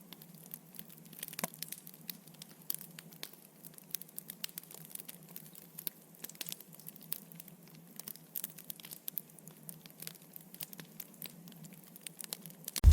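Faint crackling of a wood fire, with irregular sharp pops and snaps.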